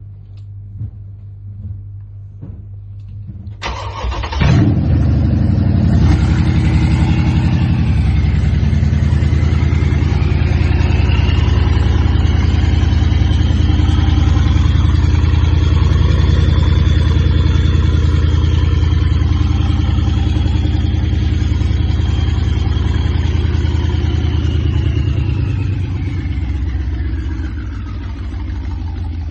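Mercedes CLS63 AMG V8 with no exhaust system fitted, open after the downpipes, cranked and started about three and a half seconds in: it catches with a loud flare, then runs loud at a fast idle with a high whine over it. Near the end the whine falls away and the idle drops a little lower.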